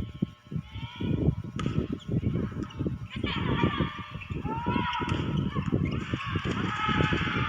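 Volleyball arena crowd: fast, uneven rhythmic beating with high-pitched cheering and calls over it, the cheering swelling about three seconds in.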